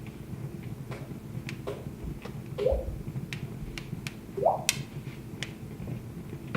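Wood fire crackling: scattered sharp pops and snaps over the low, steady rumble of the flames, with the loudest pop about four and a half seconds in.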